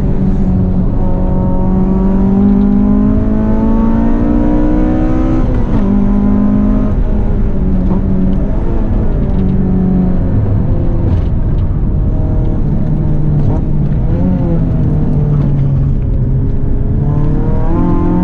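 Honda Civic EK hatchback's engine under hard track driving, its pitch climbing through the revs and then dropping sharply at a gear change about six seconds in. It then eases lower and climbs again near the end, over a constant low rumble.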